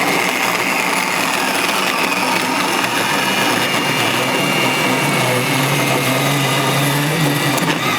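Porter-Cable portable band saw running steadily as its blade cuts through a pipe.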